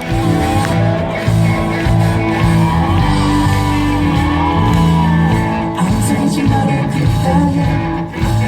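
Live pop-rock band playing an instrumental passage at concert volume: bass and guitars holding steady notes, with a lead line that glides up and down in pitch.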